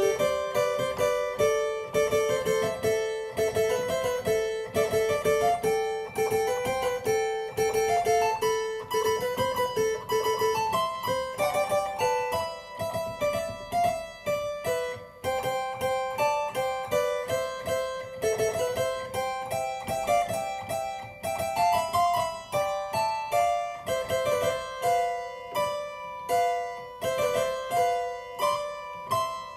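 Harpsichord tone playing an unbroken stream of quick plucked notes, with the melody moving up and down in the middle register.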